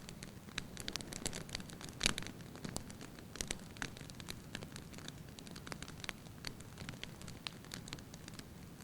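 Log fire crackling: irregular snaps and pops over a low, steady hiss of burning, with one louder pop about two seconds in.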